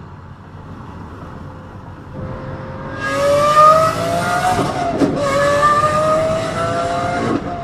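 Lamborghini engine accelerating hard, its note climbing steadily in pitch and getting loud about three seconds in. The pitch dips briefly at a gear change about five seconds in, then climbs again and breaks once more near the end.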